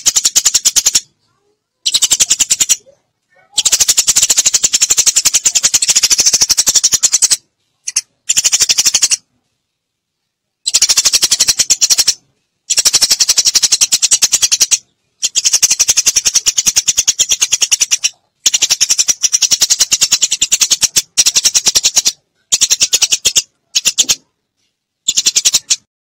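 Eurasian tree sparrows chattering: fast runs of sharp, high chirps in about a dozen bursts of one to four seconds, separated by short silent gaps.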